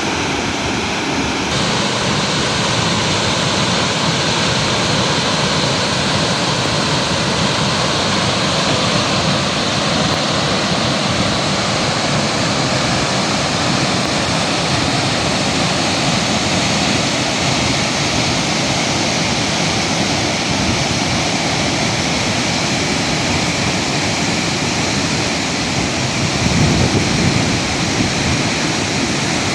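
Waterfall roaring as a steady, even rush of falling water, with a brief low rumble swelling near the end.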